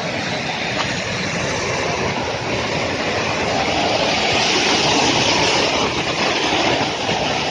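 A steady rushing, rumbling noise that grows a little louder midway and then eases slightly.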